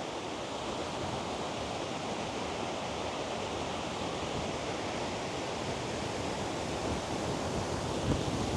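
Strong wind blowing steadily across a DJI Mic 2 fitted with its furry wind muff: an even rushing hiss that the muff keeps from breaking up into buffeting. A brief low bump comes near the end.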